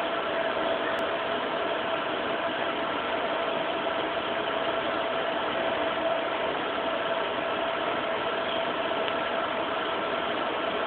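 Steady mechanical hum with a constant tone running through it, unchanging throughout.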